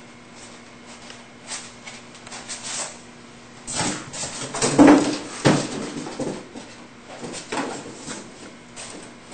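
Packaging and parts being handled: irregular rustles, clicks and knocks, busiest and loudest about four to five and a half seconds in.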